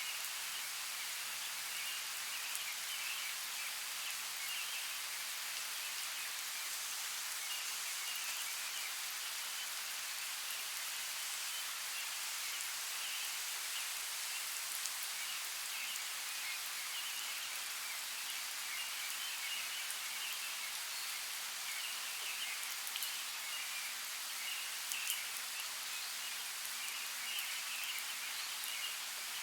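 Steady rain falling: an even hiss of drops with scattered sharper drip ticks.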